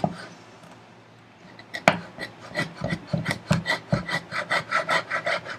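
Stanley No. 71 hand router plane cutting the floor of a housing dado in wood, a sharp knock and then quick short scraping strokes of the blade, about five a second.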